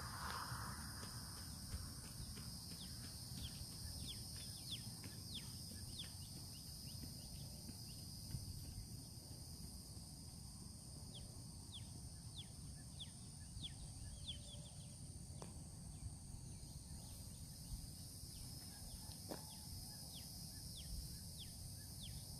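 Insects buzzing in a steady high drone, with a bird giving runs of short, quick, falling chirps. A low rumble of wind on the microphone sits underneath.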